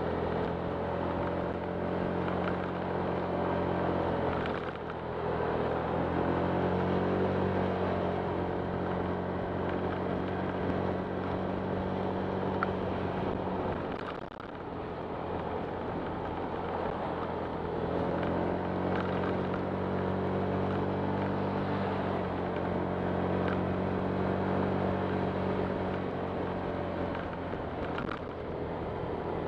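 Honda Click 125 scooter's single-cylinder engine running under way, its pitch rising and falling with the throttle. It eases off briefly about four and a half seconds in and again about fourteen seconds in.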